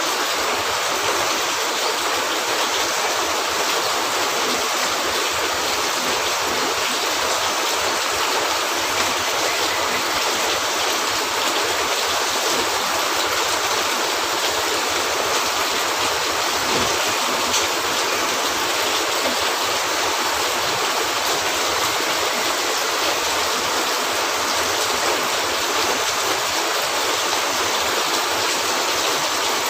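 Steady rain falling, an even rushing hiss that never lets up.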